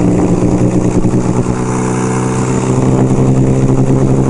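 1975 Kawasaki KZ400 parallel-twin engine running steadily while riding, its pitch shifting slightly about halfway through, with wind noise buffeting the microphone.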